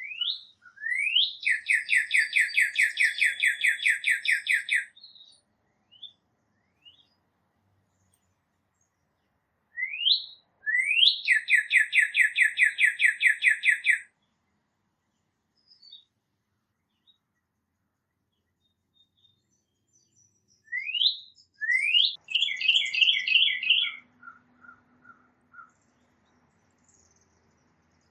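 A songbird singing three phrases about ten seconds apart, each two quick rising notes followed by a fast, even trill; the last phrase ends in a shorter, broken trill.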